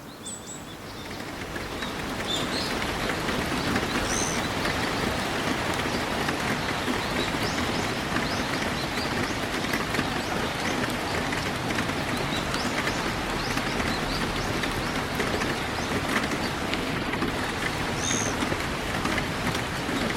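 Steady autumn rain falling, a dense patter of drops that swells in over the first couple of seconds and then holds. A bird gives a short, high call about four seconds in and again near the end.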